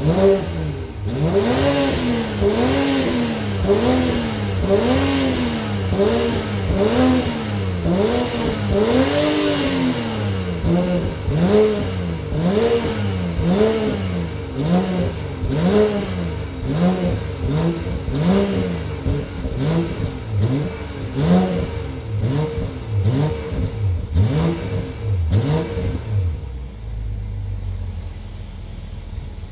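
BMW 540i engine and exhaust blipped through a long run of quick free revs, the pitch rising and falling about once a second, then settling back to a steady idle near the end.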